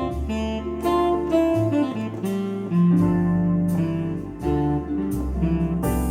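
Korg Pa1000 arranger keyboard playing a factory style: accompaniment with a bass line under changing chords and notes in a plucked, guitar-like sound.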